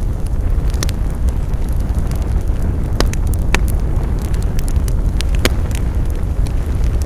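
Wood fire crackling: a steady low rumble of burning with scattered sharp pops and ticks, the loudest pops about three, three and a half and five and a half seconds in.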